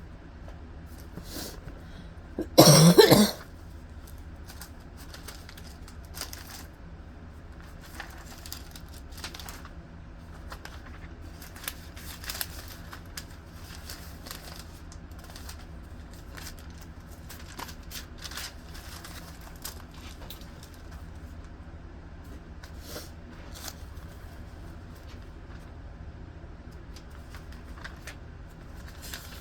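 One loud cough about three seconds in, then soft scattered rustles and small clicks of thin Bible pages being leafed through.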